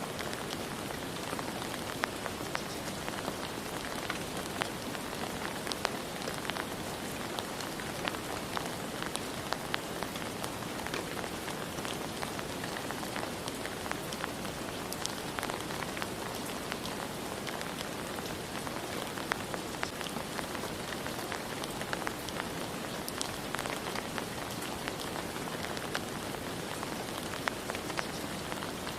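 Steady rain: a continuous even hiss with many sharp individual drops ticking through it.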